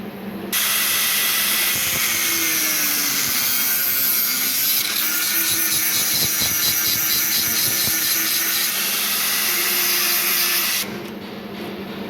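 A power tool cutting metal: a loud, harsh hiss that starts suddenly about half a second in, holds steady with a faint wavering whine, and cuts off abruptly near the end.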